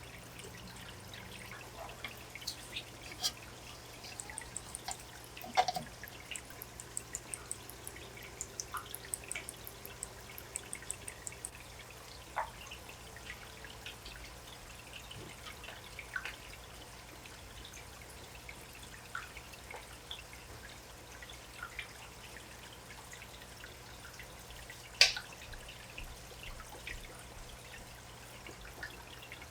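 Water dripping and trickling into an aquarium: scattered small drips and plinks, thickest in the first third, with a louder drip about five seconds in and another near the end, over a steady low hum.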